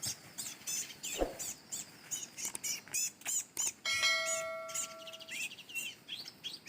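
Small birds chirping rapidly and continuously in short high notes. About four seconds in, a steady ringing tone is held for over a second, and there is one low thump just after a second in.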